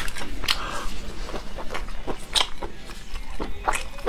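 Close-miked eating sounds: irregular sharp crunches and mouth clicks, a few each second, from chewing.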